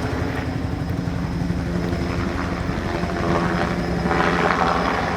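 Low-flying crop-fertilizing helicopter, its rotor beating in a steady, fast chop over a steady hum. It grows a little louder about three seconds in.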